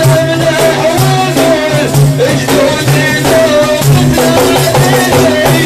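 Sufi dhikr chant: a male lead singer's wavering, ornamented melody over frame drums beaten in a steady rhythm, with a constant jingling rattle.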